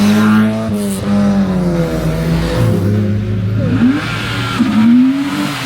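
Car engine running loud, with a few quick revs in the second half that rise and fall in pitch.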